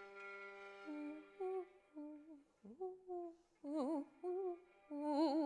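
Vocal performance: a voice hums and sings short, separate notes, some sliding and some wavering with vibrato. Under the first couple of seconds a steady drone is held.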